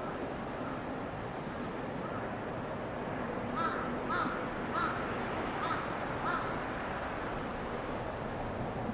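A crow cawing five times in quick succession, about two thirds of a second apart, over a steady outdoor rush of wind.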